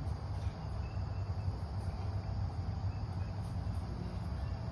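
Crickets chirring steadily over a low rumble.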